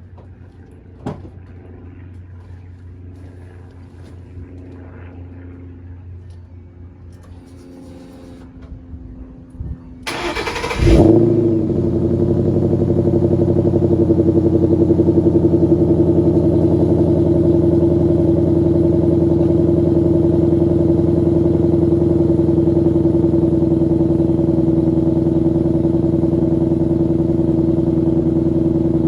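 A 2012 Mustang GT's 5.0 Coyote V8, breathing through a Ford Performance X-pipe and GT500 axle-back mufflers, is cold-started. After a quiet stretch with a single click about a second in, the starter cranks briefly about ten seconds in, and the engine fires and flares up. It then settles into a steady, loud fast idle.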